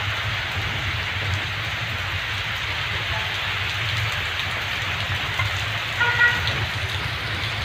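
Heavy rain pouring down steadily, an even hiss of rain on surfaces. About six seconds in there is a brief pitched sound.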